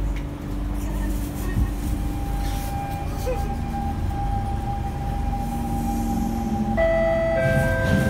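Siemens C651 electric train pulling away from a station, heard from inside the car: a steady low rumble from wheels and running gear, with the traction motors and inverter whining in steady tones that jump to new pitches twice near the end as the train picks up speed.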